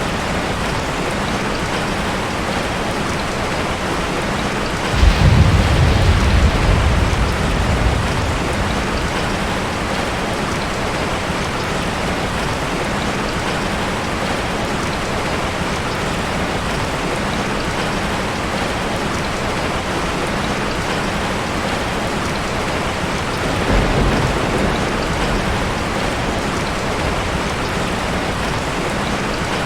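Heavy rain falling steadily on a tin roof, with two rolls of thunder: a strong low rumble about five seconds in lasting a few seconds, and a weaker one near the end.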